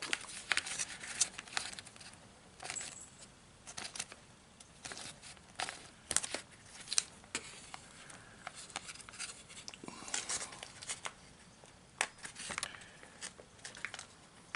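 Crinkling of a foil MRE entree pouch being worked open with difficulty, with scattered sharp ticks and short tearing sounds.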